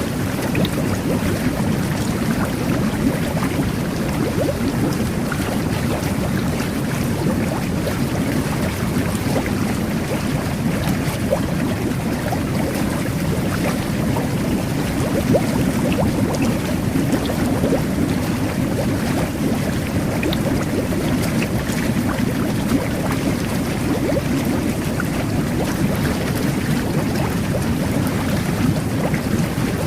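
Jet bath (whirlpool tub) running: a steady churning roar of water and air bubbles, with small bubbling crackles throughout.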